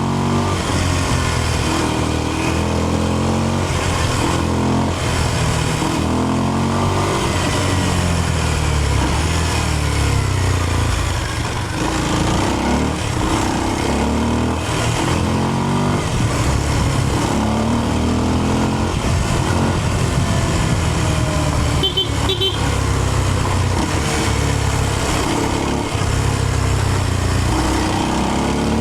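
Kawasaki KLX230's single-cylinder engine running under way, its pitch repeatedly rising and falling with throttle and gear changes.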